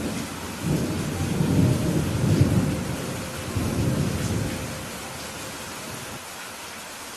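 Steady rain with a rolling rumble of thunder that starts under a second in, swells twice and dies away by about five seconds in, leaving the rain alone.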